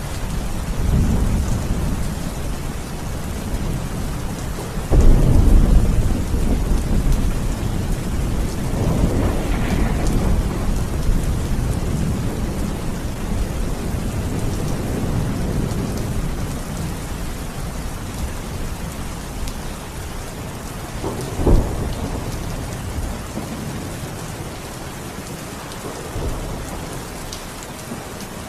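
Steady rain falling, with thunder: a loud low rumble breaks in suddenly about five seconds in and rolls on for several seconds, and a shorter, sharper thunderclap comes about three quarters of the way through.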